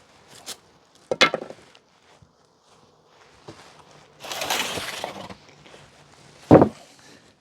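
Hive tool and wooden hive parts knocking as the top of a beehive is opened: a sharp clunk about a second in, a short rush of scraping noise about four seconds in, and a louder knock near the end.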